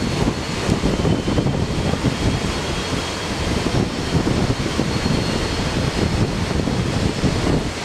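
Moving passenger train running with a steady rumble, wind buffeting the microphone, and a faint thin high whine coming and going.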